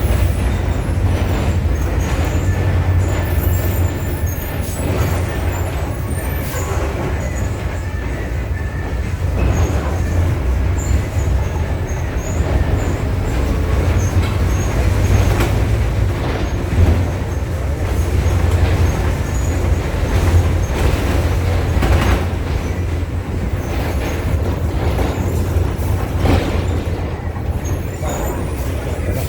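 VW 17-230 OD bus engine running steadily under way, heard from inside the Marcopolo Torino's cabin, with the body and fittings rattling and knocking over the road.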